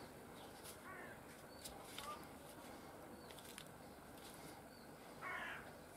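Quiet room tone with faint bird calls: short chirps early on and a harsh crow-like caw about five seconds in. A few light clicks come from handling the birch-bark sheath tube.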